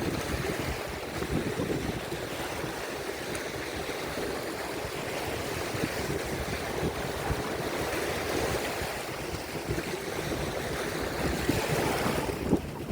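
Rough waves on Lake Erie rolling in and breaking on the shore in a continuous wash, with wind buffeting the microphone.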